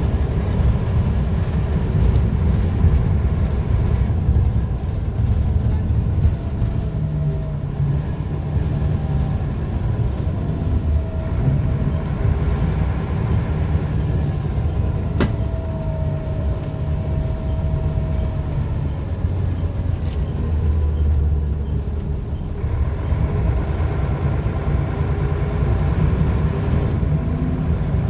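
Scania L94UB bus's diesel engine running steadily with a deep, continuous drone, the faint whine of its ZF automatic gearbox rising and falling over it, and a single sharp click about halfway through.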